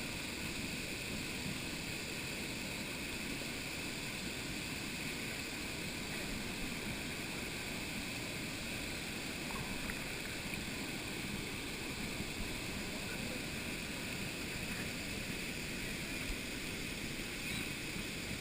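Waterfall rushing steadily: a continuous, even roar of falling water.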